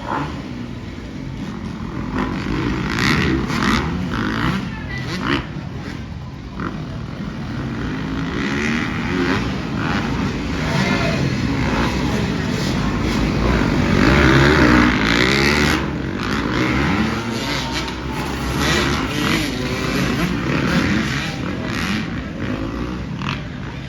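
Several motocross dirt bike engines revving and accelerating, their pitch rising and falling as they overlap, growing loudest about two-thirds of the way through.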